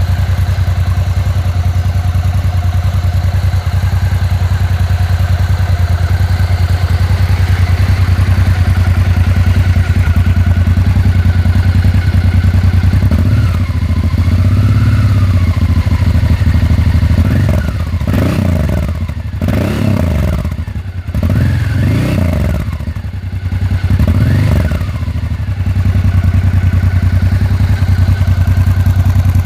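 Honda XRV 750 Africa Twin's V-twin engine idling through an aftermarket or stock exhaust. There is one gentle rev about halfway through, then a run of about five quick throttle blips, each rising and falling in pitch, before it settles back to idle.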